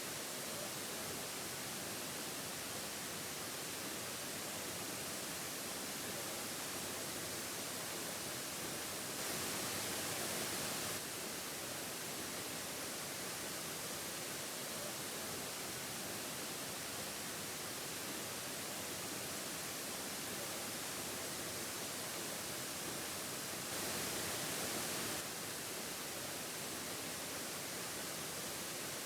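Steady rushing of a waterfall, an even hiss-like roar of falling water, with two short stretches where it is a little louder that start and stop abruptly.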